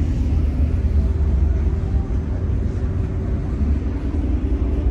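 Steady low rumble with a faint even hum of car engines idling.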